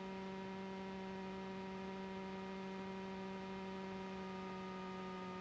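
Steady drone of the taxiing Cessna 310's cockpit, heard through the intercom audio feed: a constant hum made of several even tones, unchanging in pitch.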